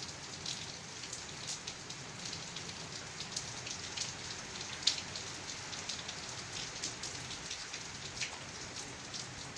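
Heavy rain falling steadily on the ground and surfaces, an even hiss with many separate drop ticks and splashes.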